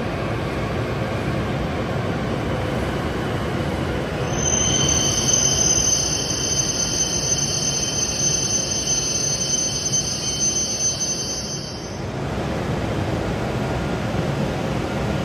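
Hokuriku Shinkansen E7/W7-series train running slowly alongside the platform with a steady low rumble. About four seconds in a high, steady squeal starts over it, holds for about eight seconds, then cuts off.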